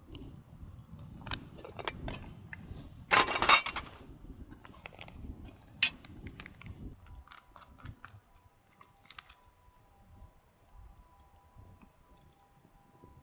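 Small hard objects being handled, clinking and knocking, with a louder clatter about three seconds in. From about halfway a faint steady high tone sets in and holds.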